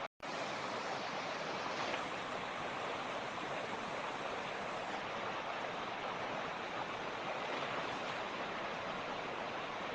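Mountain torrent rushing steadily over rocks, an even, unbroken wash of water noise, with a split-second dropout just after the start.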